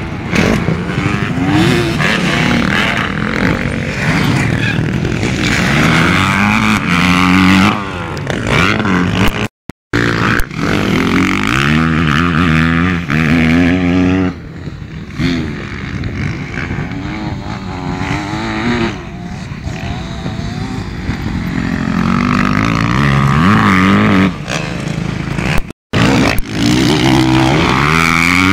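Motocross bike engines revving hard, the pitch climbing and falling again and again as the bikes accelerate, shift and back off. The sound cuts out for a moment twice.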